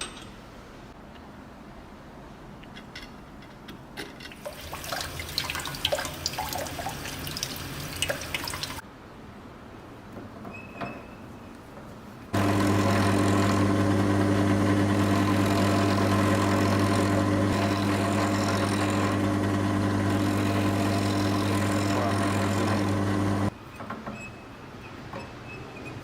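Several seconds of scraping and clicking handling noise, then an electric machine switched on that runs steadily with a low hum for about eleven seconds before stopping abruptly.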